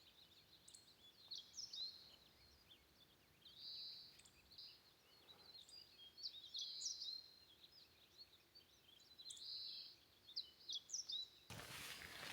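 Faint birds singing: short high chirps and brief warbled phrases repeating every second or so over a quiet hush. Near the end a louder hissing noise starts suddenly.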